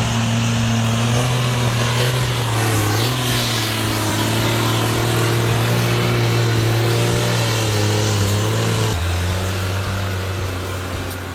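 A vehicle engine running steadily, its pitch stepping up slightly about three seconds in and dropping back about nine seconds in.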